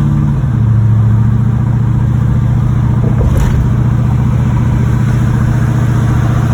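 1986 Monte Carlo SS's 305 V8 running under way. Its note drops in pitch about half a second in, then holds steady, with one brief sharp click a little over three seconds in. The engine has a knocking bottom end, which the owner takes for a rod knock.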